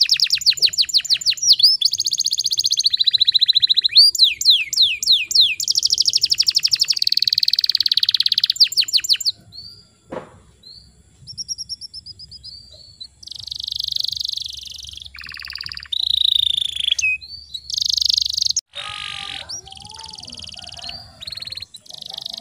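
Domestic canary singing: long, high-pitched, very fast rolling trills with repeated notes, breaking off about nine seconds in, then shorter varied phrases and buzzy trills.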